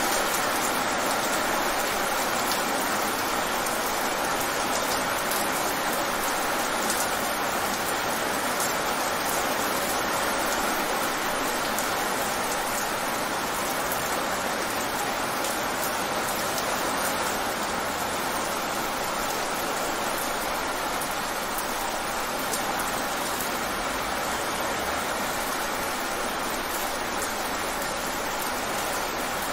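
Rain falling fast and steadily on wet pavement: a dense, even hiss of drops splashing on the hard surface.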